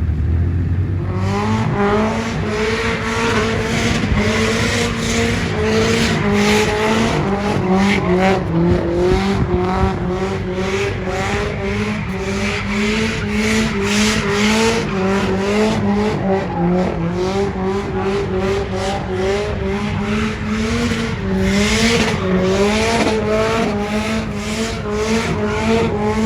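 A car doing a long burnout: the engine is held at high revs, its pitch wavering up and down as the throttle is worked, over the steady squeal and hiss of spinning rear tyres.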